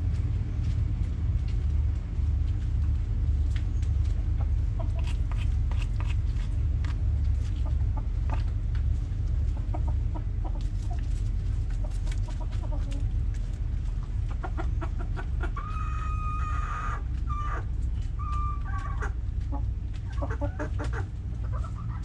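Backyard chickens clucking in short scattered calls, with one longer held call about two-thirds of the way in. A steady low rumble runs underneath.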